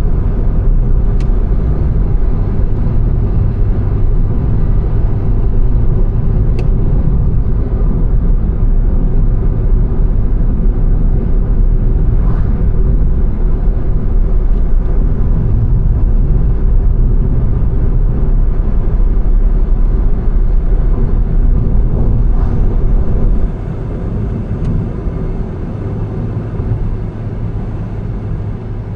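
Car driving along a road, heard from a camera mounted in the car: a steady, loud low rumble of road and engine noise with a few faint ticks. About three-quarters of the way through the rumble drops noticeably quieter.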